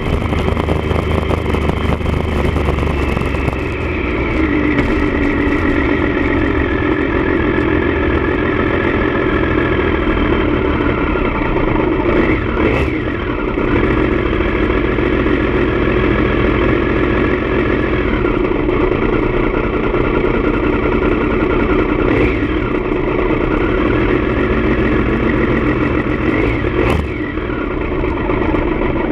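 Triumph Daytona 955i's three-cylinder engine running steadily through an aftermarket D&D exhaust, with its pitch settling lower about four seconds in and a few short sharp sounds along the way.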